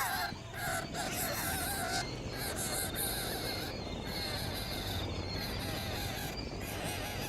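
Bird calls, short repeated cries, mostly in the first couple of seconds, over steady outdoor background noise.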